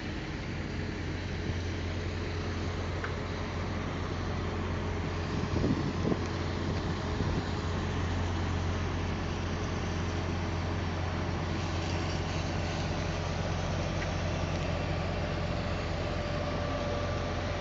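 Heavy diesel engine of a concrete pump truck running steadily during a concrete pour, with a few louder knocks about five to six seconds in.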